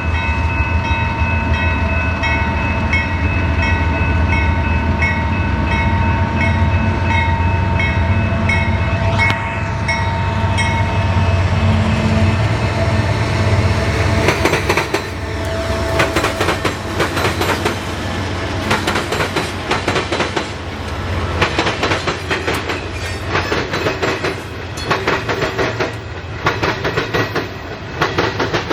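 Freight train passing: a diesel locomotive's low engine drone for the first half, then railcars clattering rapidly over the rail joints.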